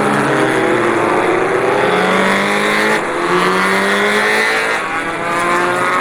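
Motorcycle engine accelerating through the gears. Its pitch climbs steadily, drops at a gear change about three seconds in and again near five seconds, then climbs once more.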